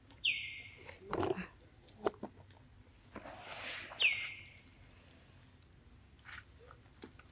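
Two identical high, clear whistled calls from a bird, about four seconds apart, each dropping sharply in pitch and then held briefly. Soft knocks and a brief rustle come in between.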